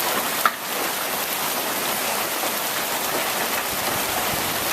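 Rain mixed with pea-sized hail pelting down in a steady, dense hiss, with one sharp tap about half a second in.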